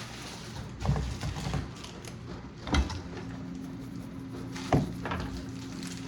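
Kitchen clatter: three short knocks and clunks, spaced a couple of seconds apart, over a steady low hum.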